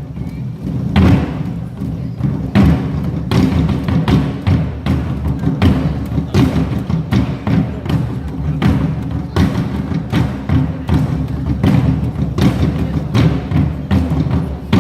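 Nanta drumming: a group beating drums with sticks in a fast, driving rhythm over a backing music track.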